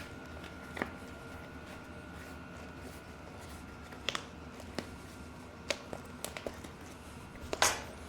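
Hands working a mountain bike tire and its foam flat-proof insert onto the rim: scattered light clicks and snaps of rubber and foam against the rim, with a longer scrape near the end.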